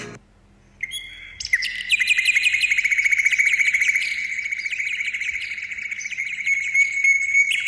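A bird chirping in a fast, steady run of high, sharp notes, roughly ten a second, starting about a second in.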